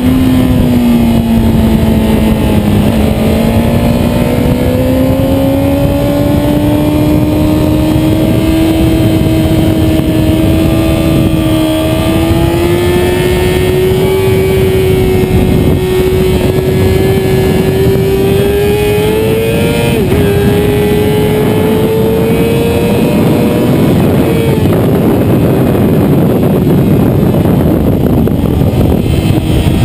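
Motorcycle engine running hard, over a dense rush of wind and road noise. The engine note climbs slowly for about twenty seconds, wavers briefly, then drops away a few seconds later as the revs fall.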